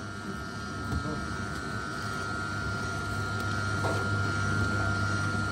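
A machine engine running steadily, with a constant high whine over a low drone that gets louder from about halfway through.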